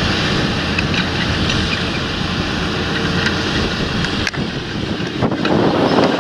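Large John Deere tractor working a field: a steady engine drone mixed with wind noise on the microphone, with a sudden click and short dip about four seconds in and a louder stretch near the end.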